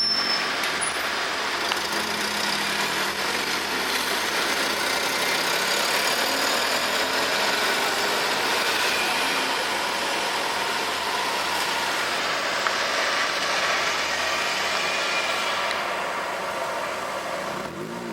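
Street traffic: motor vehicle engines and tyre noise running steadily, easing off near the end.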